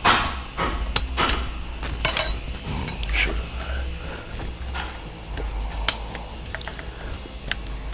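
Irregular metal clicks, clinks and scrapes of a tool working a snap ring out of a 5R110W transmission clutch drum while its piston return spring is held compressed in a foot press, with a brief metallic ring about two seconds in.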